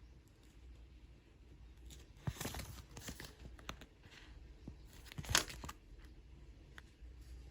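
Paper being handled: two spells of rustling and tearing, the second, about five seconds in, the loudest.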